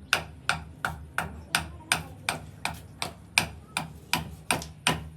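Steady hammering: sharp, evenly spaced blows, about three a second, each with a short ring.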